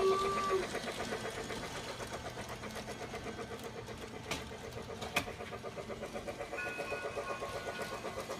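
Battery-operated Lionel Polar Express Ready to Play toy locomotive running around its plastic track with a steady, rapid rhythmic chugging. Two sharp clicks sound about halfway through.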